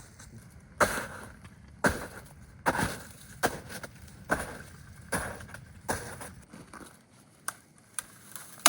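A run of sharp crunches, about one every 0.8 seconds, that gives way to a few lighter clicks near the end.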